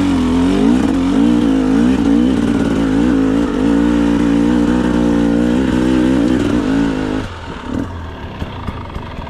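2025 GasGas EC 300 two-stroke dirt bike engine lugging at low revs up a steep climb, its pitch wavering up and down with the throttle. About seven seconds in it drops off to a quieter, uneven low putter.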